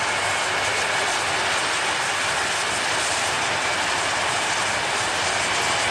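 Boeing 747-400F jet engines running after start-up: a steady roar with a faint, steady high whine above it.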